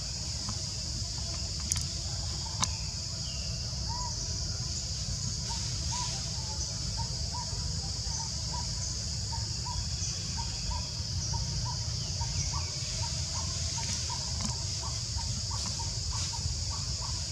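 A steady high insect drone over a low rumble, and from about four seconds in a bird repeating short, evenly spaced notes, about two a second.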